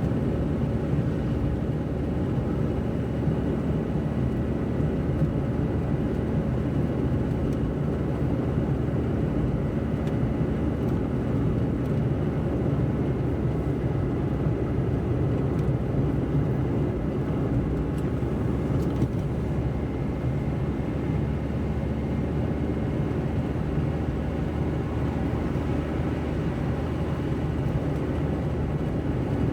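Car driving at a steady pace: an even, low engine and road rumble with no sudden events.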